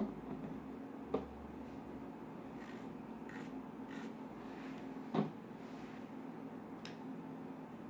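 Quiet handling sounds: light rubbing with a few soft knocks, one at the start, one about a second in and the loudest about five seconds in.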